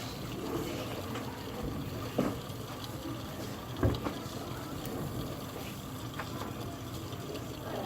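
Water boiling inside a homemade tin-can Hero's engine over a fire, with steam sputtering and hissing out of it; two short knocks in the first half.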